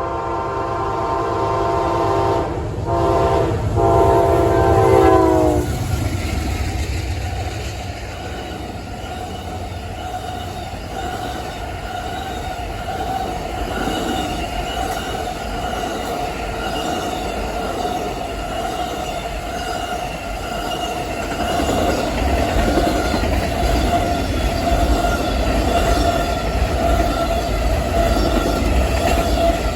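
Amtrak Auto Train passing at speed: the locomotive's air horn sounds a chord with two brief breaks, then cuts off with its pitch dropping as it goes by, about five seconds in. The long string of cars follows, a steady rumble and clatter of wheels on rail with a high ringing tone over it.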